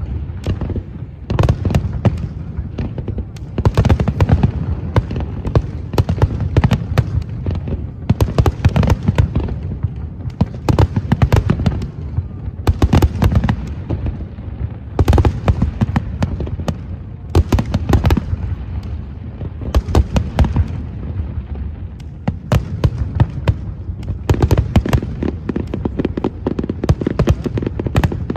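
Aerial fireworks display: a dense, unbroken run of bangs and crackles over a low rumble of booms, the bangs coming in clusters every second or two.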